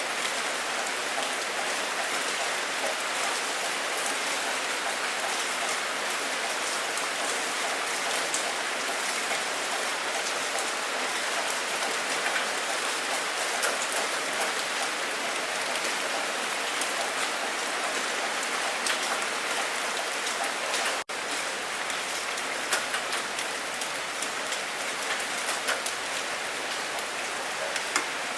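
Steady rain falling, with individual drops ticking through it. The sound cuts out for an instant about two-thirds of the way through.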